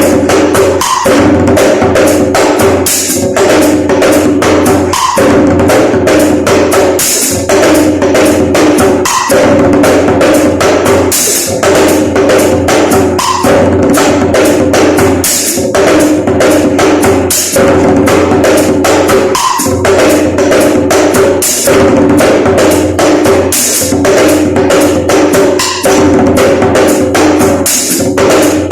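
Hand drumming on a broken djembe: fast, dense strokes in a pattern that repeats about every two seconds, with a steady ringing tone under the beats.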